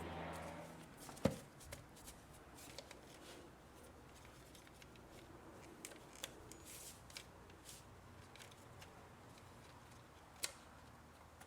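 A few sharp clicks and light handling noises over a quiet background, the loudest about a second in and another near the end.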